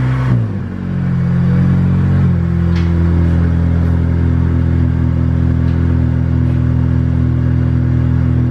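Acura RSX's 2.0-litre four-cylinder engine idling steadily. In the first half-second the engine note drops back from a slightly higher speed, and about two seconds in the idle note steps slightly.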